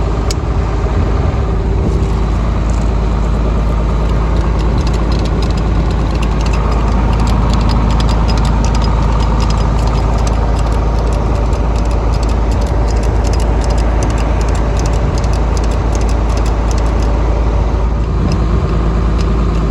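Engine idling steadily, with a run of rapid, light metallic clicks through the middle.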